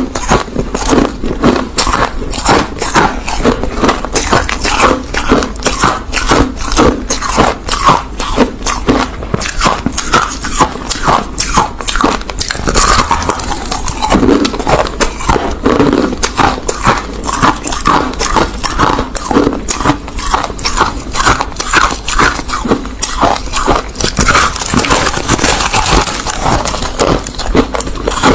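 Close-miked mouth chewing crushed white ice: a steady run of loud crunches, several a second.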